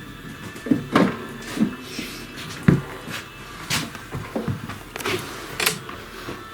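Irregular metal clunks and knocks, about eight over six seconds, as an engine is set onto a walk-behind tractor's gearbox.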